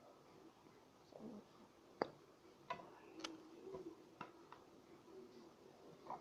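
Near silence with a few faint, sharp clicks and ticks from handling as white glue is squeezed out of its bottle into a bowl.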